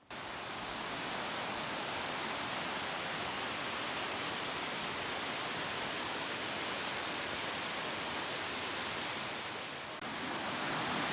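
Steady rush of water pouring down Crabtree Falls. It dips for a moment about ten seconds in and comes back a little louder.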